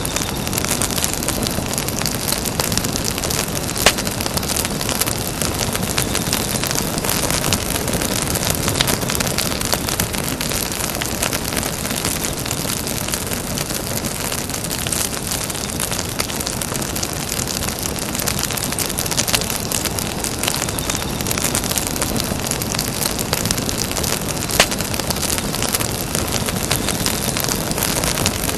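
Campfire burning with a dense, steady crackle and hiss of wood burning, and a couple of sharper pops, one about four seconds in and one later on.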